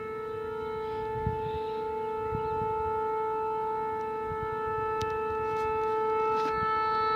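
Outdoor tornado warning siren sounding a steady, unwavering tone, slowly growing louder.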